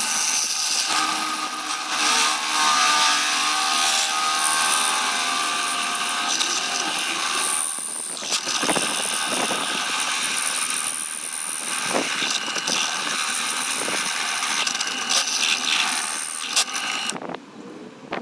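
Homemade belt grinder driven by an angle grinder, running with a steady high whine and the hiss of the belt grinding, with scattered knocks. It cuts off suddenly near the end.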